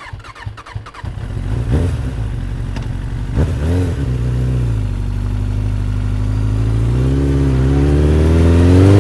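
Engine starting up and revving twice, then running and climbing steadily in speed and loudness.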